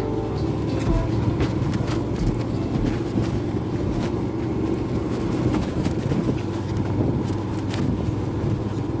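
Motorcycle engine running steadily under way, with road and wind noise and a few sharp knocks scattered through.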